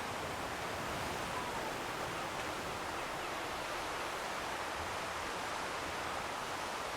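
Steady, even rushing of distant sea surf, with no single wave or break standing out.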